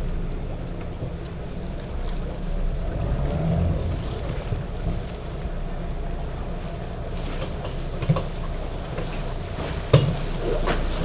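Passenger shuttle boat's engine running steadily, with water and wind noise buffeting the microphone. Two short sharp knocks come about eight and ten seconds in.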